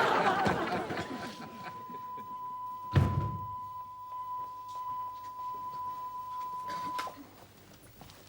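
Studio audience laughter dying away, then a single thud about three seconds in, while a steady high tone holds from about a second in until about seven seconds.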